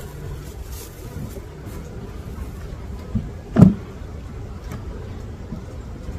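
Wooden beehive frames and boxes being handled during an inspection: a single dull knock a little past halfway, with a smaller tap just before it, over a low steady rumble.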